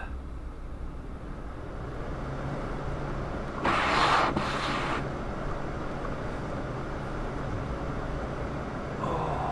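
Steady car road and engine noise while driving, a low drone with a hum. A loud rushing noise swells for about a second, roughly four seconds in.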